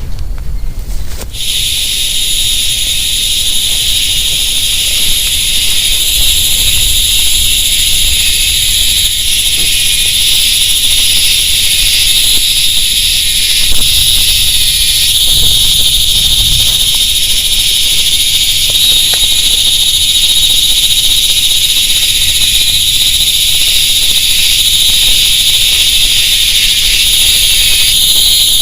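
Dense chorus of night insects: a loud, steady, high-pitched buzzing drone made of several layered tones, starting abruptly about a second in, over a low rumble of wind on the microphone.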